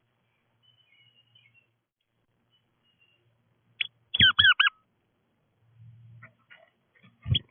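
Bird calling at the feeder: a short note, then a quick run of four looping notes a little after halfway. A dull thump near the end.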